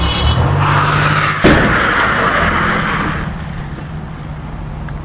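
A car's engine and road noise, with one sudden bang about one and a half seconds in, typical of a collision.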